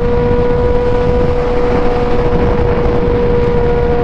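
Motorcycle engine running at steady revs through a wide-open aftermarket exhaust, holding one even note, with wind rushing over the microphone.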